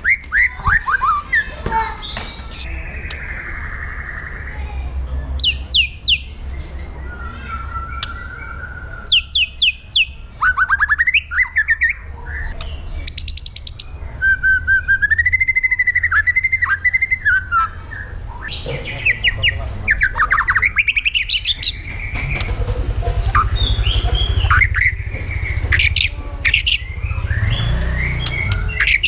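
White-rumped shama singing a fast, varied song: quick runs of rising notes, clear whistled phrases and rapid trills, with some harsh chattering notes. A steady low hum runs underneath.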